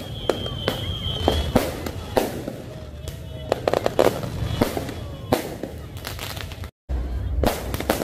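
Fireworks going off overhead: a rapid, irregular string of bangs and crackles over crowd chatter. About seven seconds in there is a brief break, then the bangs continue.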